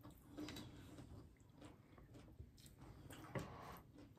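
Faint chewing and wet mouth clicks of people eating, one a little louder about three and a half seconds in.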